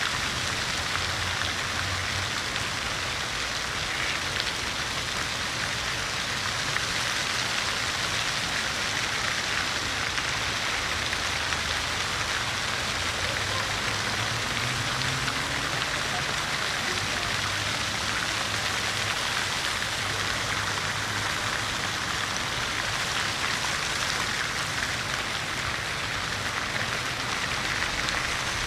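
City fountain water splashing and falling steadily into its basin, an even hiss. A faint low hum comes and goes underneath.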